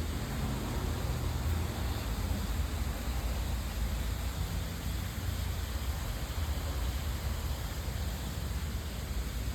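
Steady background noise with a low rumble and no distinct events.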